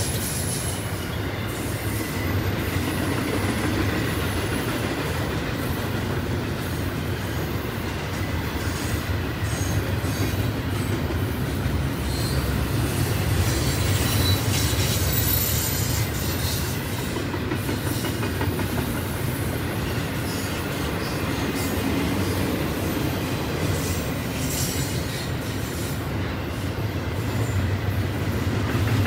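Double-stack intermodal container cars of a freight train rolling past at speed: a steady rumble of steel wheels on rail, with thin high wheel squeal in the first few seconds.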